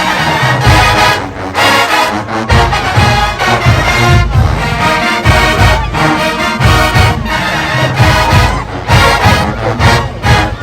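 Marching band playing loudly, a full brass section of trumpets and trombones over a steady low drum beat.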